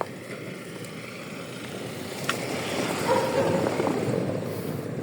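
A car driving slowly past, its engine and tyres growing louder to a peak about three seconds in, then easing off.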